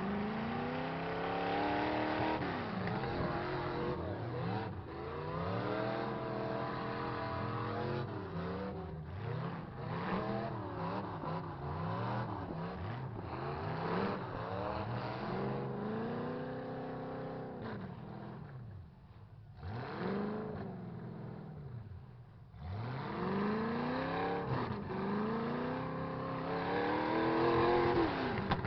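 Several truck engines revving hard at once in a demolition derby, their pitches rising and falling over each other. The sound eases off for a few seconds about two-thirds of the way through, then the revving picks up again.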